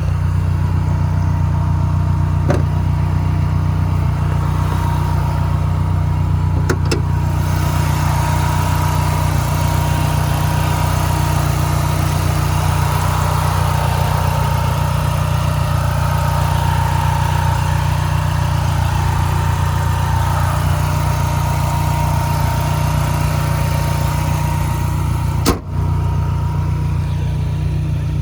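2005 Dodge Neon SRT-4's turbocharged 2.4-litre four-cylinder idling steadily on a cold start, running a little rich. A single sharp click sounds near the end.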